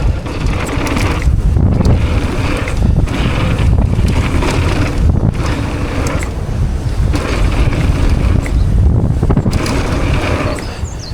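Heavy wind buffeting the microphone of a mountain bike helmet or chest camera, with the rattle and clatter of the bike running over a rough trail.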